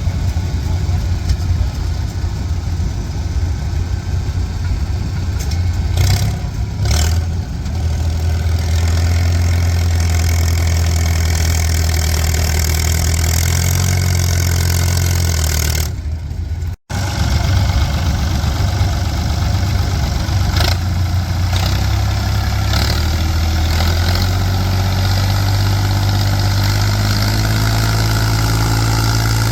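Antique farm tractor engine running steadily under load, pulling a weighted stone boat, with a brief cut-out about 17 seconds in.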